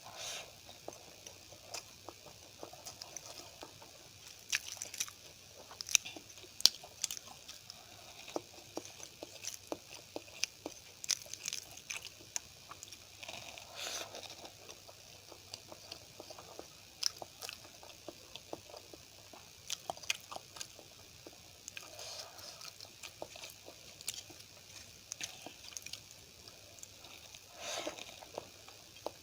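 Close-up eating sounds: chewing and biting with wet, sticky mouth clicks and smacks, irregular throughout, as poori, rice and curry are eaten by hand.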